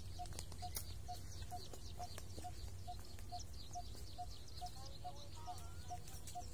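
Outdoor bird calls: one low note repeated evenly about twice a second, over many small high chirps and a few short whistled glides about five seconds in, with a steady low rumble underneath.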